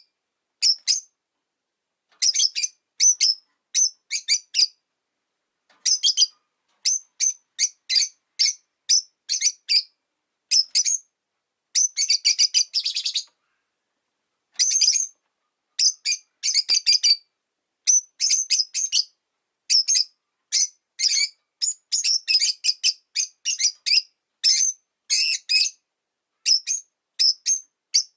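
Rosy-faced lovebirds chirping: rapid strings of short, high chirps in bursts, with brief pauses between them.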